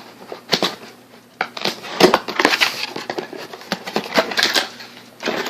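Plastic blow-dryer attachments being handled, giving an irregular run of light clicks, knocks and rattles.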